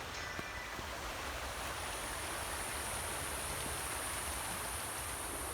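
Forest ambience: an even rushing noise, with a high, steady buzz coming in about a second and a half in.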